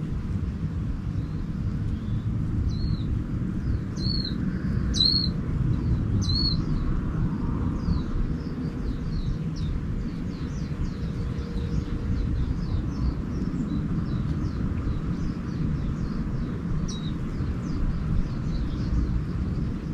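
Small birds chirping: four clear, arched chirps between about three and six seconds in, then many faint, quick chirps. Under them runs a steady low rumble, the loudest sound.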